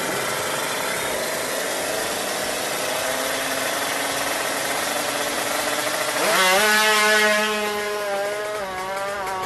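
Tuned Kawasaki Ninja drag-bike engine running, then revved hard about six seconds in. The pitch climbs sharply, holds high for a second or so, then eases a little and wavers.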